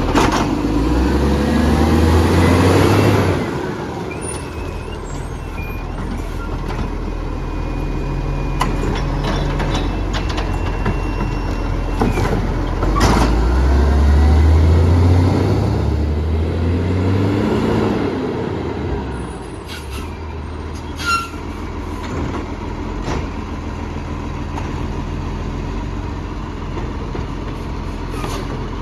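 Garbage truck's diesel engine revving up twice, with a lower run between and afterwards, plus air-brake hisses and clanks. The engine is loud, the roaring truck its owner-filmers note.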